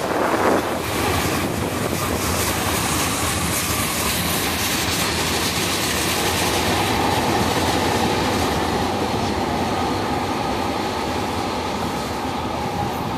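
Freight train of tank cars rolling past, with a steady rumble and clatter of wheels on the rails. A faint steady wheel squeal runs through the second half.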